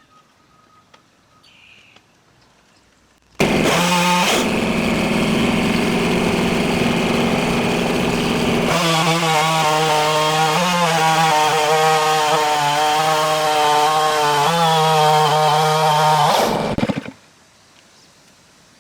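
Stihl MS660 two-stroke chainsaw on a Norwood Portamill chainsaw mill, running flat out while ripping a log. It starts suddenly a few seconds in, holds a steady pitch, then about halfway its pitch drops a little and wavers, and it stops shortly before the end.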